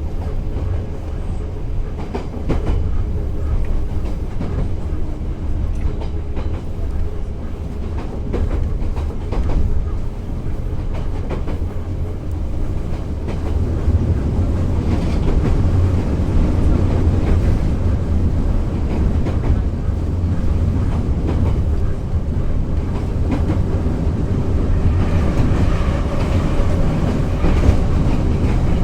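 Moscow Metro 81-717 'Nomernoy' train running at speed: the wheels clatter over the rail joints in a repeating clickety-clack above a steady low rumble.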